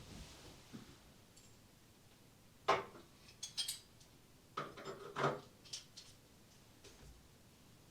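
Metal implements being handled and set down: several short clinks and knocks, some with a brief ring, bunched in the middle of the stretch with one more near the end.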